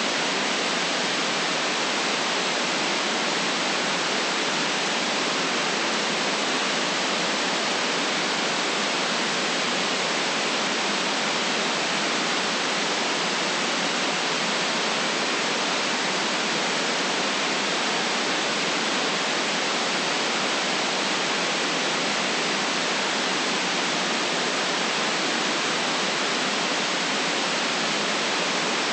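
Steady synthetic white noise: an even, unchanging hiss with no deep rumble.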